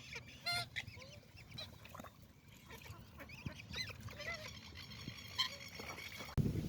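Many wetland birds calling together in short, overlapping calls. Near the end the calls give way suddenly to a low rumbling noise.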